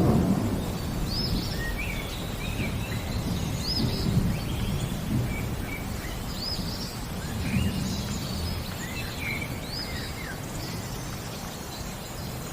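Birds singing: one repeats a short high note that rises and falls, about every two and a half seconds, with other chirps between. Under them runs a steady low rumble of rain and distant thunder.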